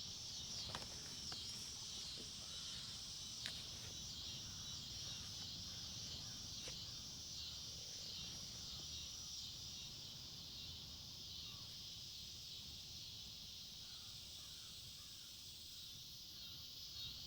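Steady chorus of insects, faint and high, over a low wind rumble, with a few soft clicks.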